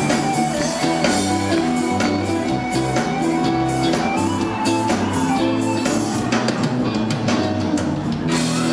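Live band playing: a drum kit with regular hits over held bass notes and an electric guitar line, with no singing.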